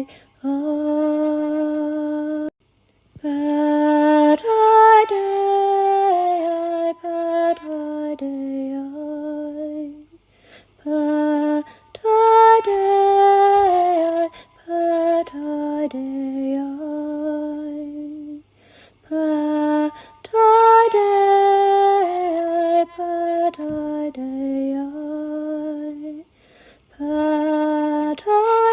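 A woman singing a slow, chant-like healing song in long held phrases with brief pauses between them, the melody repeating about every eight seconds.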